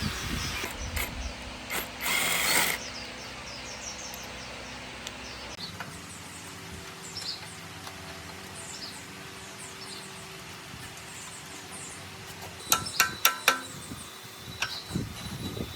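Metal parts being handled: a short scraping rush about two seconds in, scattered light clicks, then a quick run of four sharp metallic clinks with a brief ring near the end.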